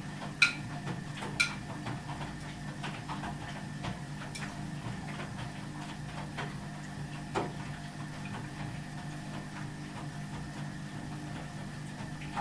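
Ardo washing machine running: a steady mechanical hum with a stream of small ticks and knocks, sharp clicks about half a second and a second and a half in, and a duller knock about seven seconds in.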